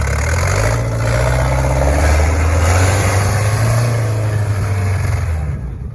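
John Deere tractor engine running steadily, as if under load, easing off and fading just before the end.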